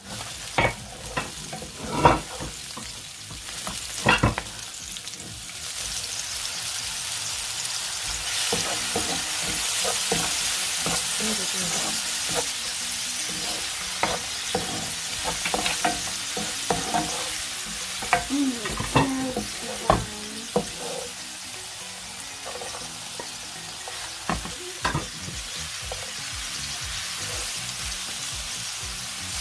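Stir-frying in a hot wok: oil sizzling steadily while a utensil scrapes and clacks against the pan as the ingredients are tossed, the sizzle growing louder and fuller after about six seconds.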